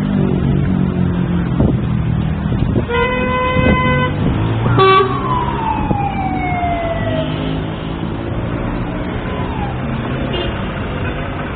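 Street traffic with a heavy engine running. A vehicle horn sounds for about a second around three seconds in, followed by a brief second tone and a tone that slides slowly down in pitch over about two seconds.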